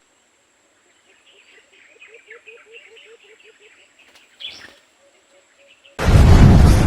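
Faint bird calls, a run of rapid short chirping notes about five a second, then about six seconds in a sudden loud rushing blast cuts in.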